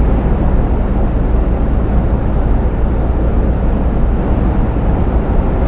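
Steady low rumble of a truck's engine and tyres on the road, heard from inside the cab while cruising on a motorway.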